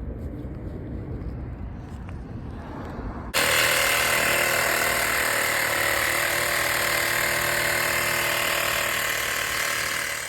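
Low rumble, then about three seconds in a sudden loud, steady hiss of water rushing out of a pressurised line, which fades near the end.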